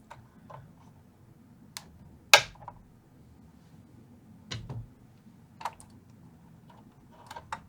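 Wire cutters and small hand tools clicking on the wiring inside a vintage tube amplifier's chassis: a handful of scattered sharp clicks, the loudest about two and a half seconds in.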